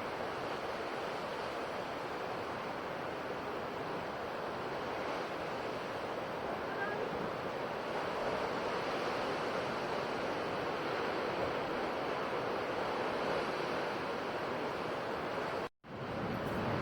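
Sea waves washing continuously on a shore, a steady surf that swells a little partway through. Near the end it cuts out for an instant, like a splice in the recording.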